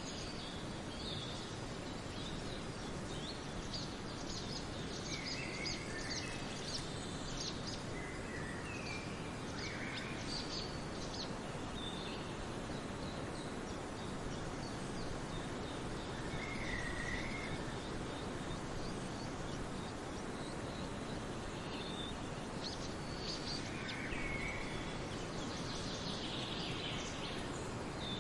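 Forest birds chirping and singing in scattered short calls and trills, over a steady background hiss.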